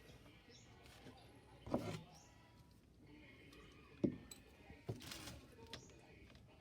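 A few faint metallic clicks and knocks of a wrench working the clamp bolt on a truck battery's negative terminal: one short knock near two seconds in, the sharpest click about four seconds in, and another knock about a second later.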